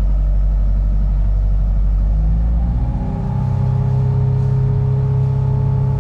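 Sailing yacht's inboard engine running under way, its note rising a little about halfway through and then holding steady at higher revs.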